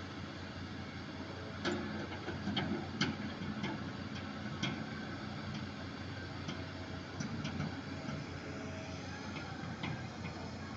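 A steady mechanical hum with a run of irregular sharp clicks and knocks starting about two seconds in, several of them close together.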